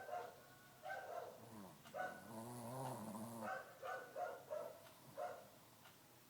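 A sleeping Shih Tzu snoring: a string of short, pitched snorts, with one longer drawn-out snore about two seconds in, followed by a quick run of snorts.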